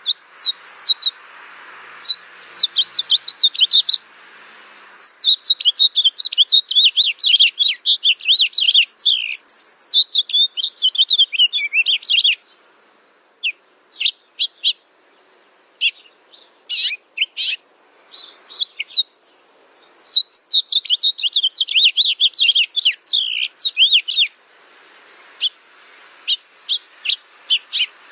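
Small birds chirping in fast, high-pitched twittering runs lasting several seconds, broken by a sparser middle stretch of single chirps, over a faint steady hiss.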